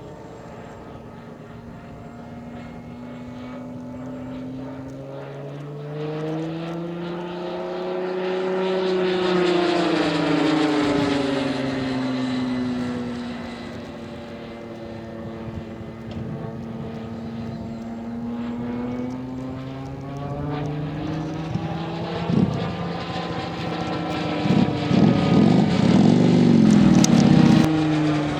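Radio-controlled P-51D Mustang scale model's two-cylinder inline two-stroke engine running through a reduction gear to a four-blade propeller as the model flies past. Its pitch rises and then falls over several seconds as it passes, and a second, louder pass comes near the end.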